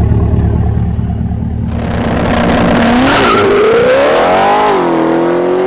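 C8 Corvette's V8 breathing through long-tube headers and a stainless cat-back exhaust, loud. A deep rumble gives way to a rushing noise as the engine note climbs twice under acceleration, then levels off to a steady drone.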